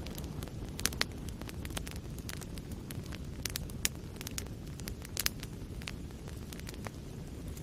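Wood fire burning in a fireplace: a steady low rumble of flames with irregular sharp crackles and pops, several louder snaps scattered through.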